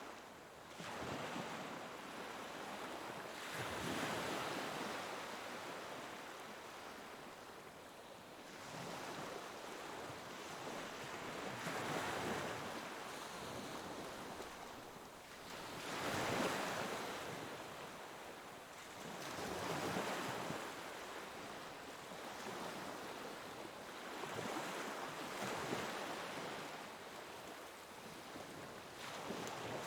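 Ocean waves breaking and washing on a shore, a steady surf that swells and eases with each wave every few seconds.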